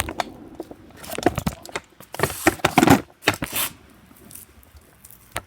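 Close handling noise: irregular rustling, crinkling and scraping with sharp clicks, loudest about two to three seconds in, then fainter taps near the end.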